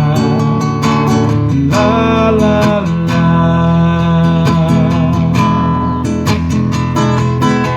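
Music: an acoustic guitar strumming chords in a steady rhythm, the instrumental lead-in to a song before the vocals begin.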